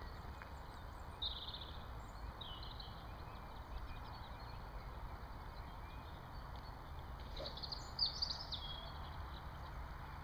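Small birds chirping in short bursts over a steady low outdoor rumble, with a busier spell of calls near the end.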